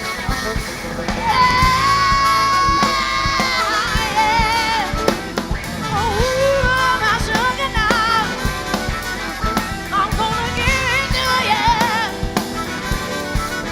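A live band playing a song with drum kit. A lead melody line holds a long wavering note about a second in, then runs through quick, ornamented phrases over the beat.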